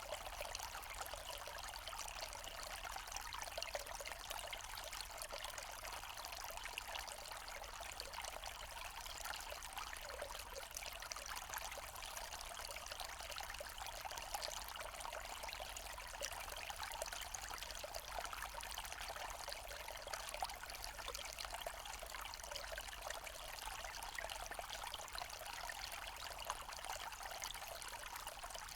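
Small forest stream running over rocks, a steady babbling and trickling of water with quick little splashes.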